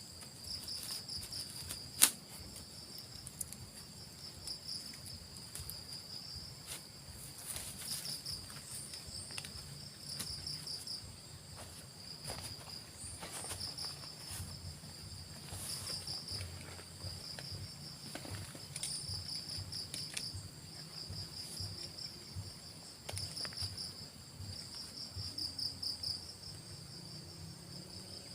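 Insects chirping in repeated rapid, pulsing trills at a steady high pitch. Scattered short clicks and knocks sound through it, the loudest a sharp click about two seconds in.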